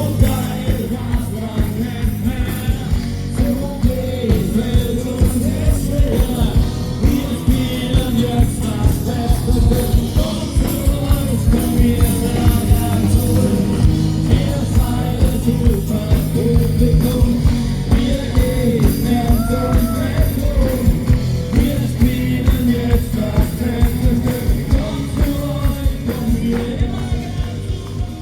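Live rock band playing with singing: a steady drum beat under a full band and a sung melody.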